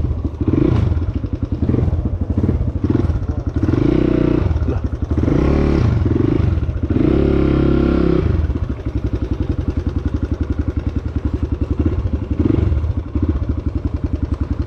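Motorcycle engine running. It is revved up several times in the first half, then settles into a steady run with a fast, even beat.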